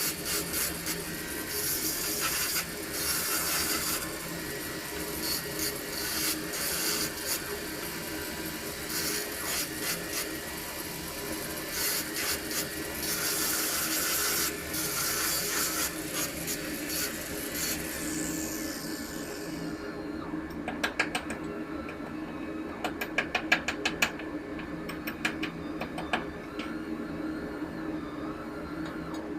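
A hand-held power tool working on pipe with a rough, uneven grinding hiss, winding down with a falling whine about two thirds of the way in. A run of sharp clicks and taps follows, over a steady machinery hum.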